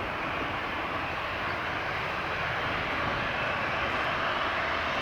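Airliner engines running, a steady rushing noise that holds at an even level.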